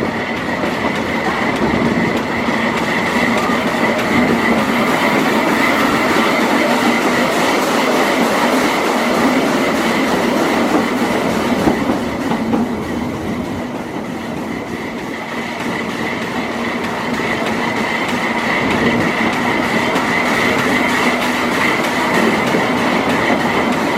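Narrow-gauge train running along the track, heard from an open coach: a steady rumble and clatter of wheels on rails, with a continuous high-pitched wheel squeal. The sound eases a little about halfway through and then builds again.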